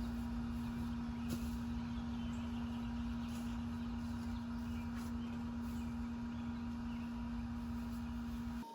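A steady mechanical hum over a low rumble, with a few faint short high sounds now and then.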